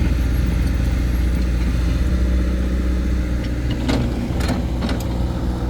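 Old dump truck's engine running steadily at a low, even speed, with a few sharp knocks or clanks about four seconds in.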